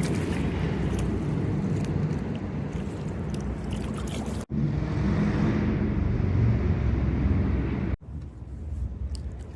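Kayak paddling on a river: small splashes and drips of water over a steady low rumble. The sound cuts off abruptly twice, about four and a half and eight seconds in, and changes character each time.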